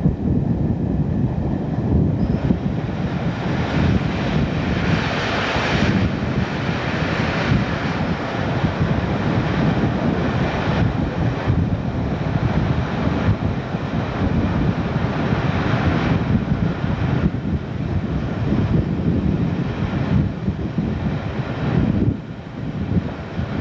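A diesel-hauled passenger train running at speed, heard from an open window: wind rushing on the microphone over the rumble of wheels on rail and the drone of the British Rail Class 47 diesel locomotive at the head of the train. The sound dips briefly near the end.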